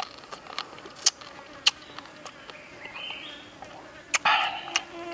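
Eating grilled frog: sharp crackly clicks of chewing and picking at the crisp meat and bones, with a louder crunch about four seconds in. Faint insect buzzing behind.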